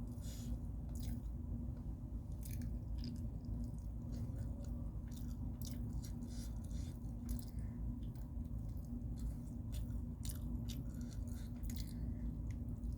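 Close-miked chewing and biting of food, with many short irregular wet clicks and crunches, over a steady low hum.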